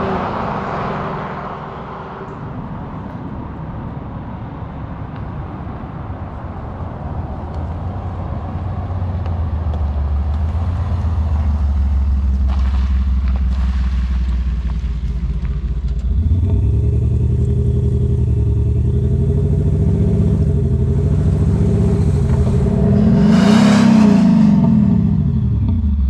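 Land Rover Defender diesel engine through an aftermarket exhaust, running steadily, then revved up and down several times from about two thirds of the way in, with the biggest rev near the end.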